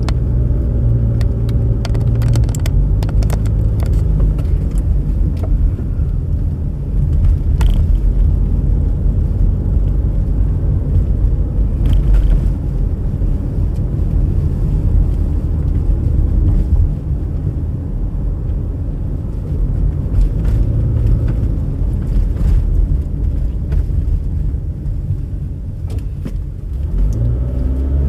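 Steady low rumble of a car driving, engine and road noise, with a few small clicks and knocks scattered through it.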